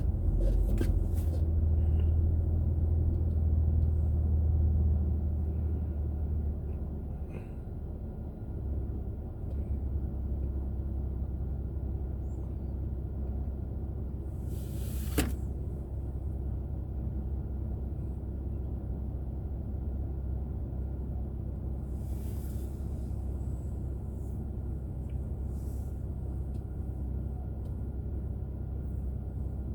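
Steady low rumble of a car's engine and road noise picked up by a dashcam inside the car, louder for the first few seconds and then settling. A single sharp click comes about fifteen seconds in.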